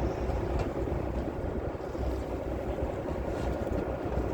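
An engine running steadily: a constant low rumble with a faint steady hum.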